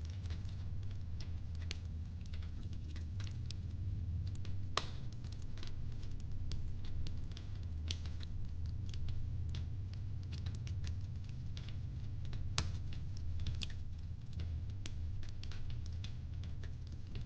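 Fireplace crackling: irregular sharp snaps and pops over a steady low hum, with louder pops about five seconds in and about twelve and a half seconds in.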